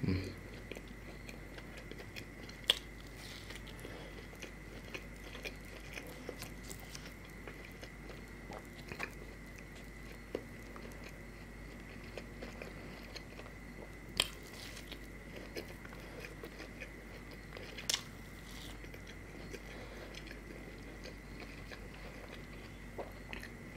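Close-miked eating of medu vada: quiet biting and chewing, with now and then a sharper click, three of them standing out. A faint steady high-pitched tone sits underneath.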